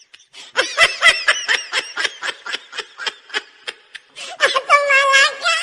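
A person laughing in quick, high-pitched bursts, about four a second, ending in a longer held squeal of laughter near the end.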